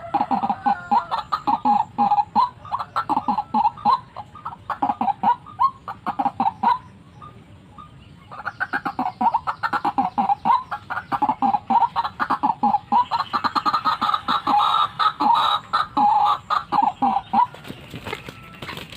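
White-breasted waterhen calling: a fast run of short, repeated croaking notes that breaks off for about a second and a half partway through, then starts up again.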